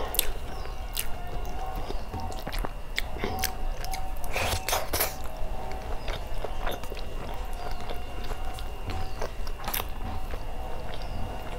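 Close-miked eating of rice and curry by hand: steady wet chewing with many short sticky clicks and smacks, a few louder clusters of them about four to five seconds in and again near ten seconds.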